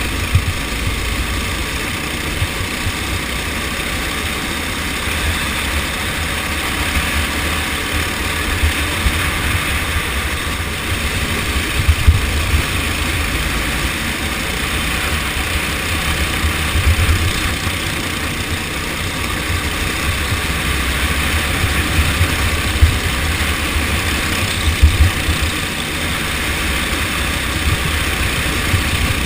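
Racing kart engine running steadily at speed, with a low, uneven rumble and bumps on the microphone throughout.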